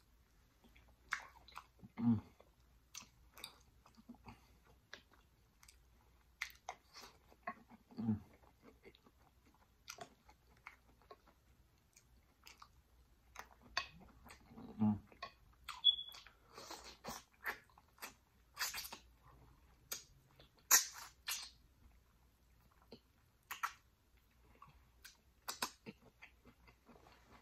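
Close-miked chewing, with wet mouth clicks and smacks, of a person eating tender jerk pig tails off the bone. Three short low hums come in along the way.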